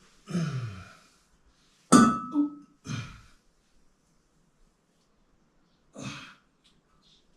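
A person sighing and grunting with effort, with a sharp clink and a brief ring about two seconds in, the loudest sound.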